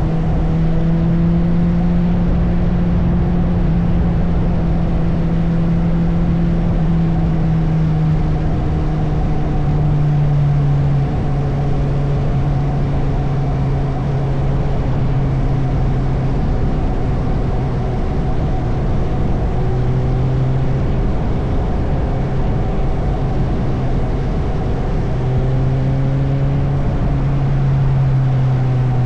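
Motorcycle engine running under way, its note shifting in pitch as the speed changes: it drops about ten seconds in and rises briefly near the end. A steady rushing noise of wind and road runs underneath.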